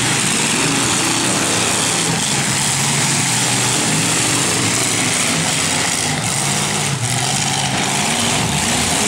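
Several demolition-derby truck engines running loudly and revving up and down together, with a couple of faint knocks from impacts about two-thirds of the way through.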